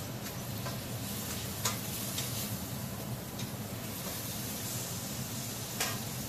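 Thin strips of beef sizzling steadily as they stir-fry in a nonstick pan, with a few light taps and scrapes of a wooden spatula stirring them.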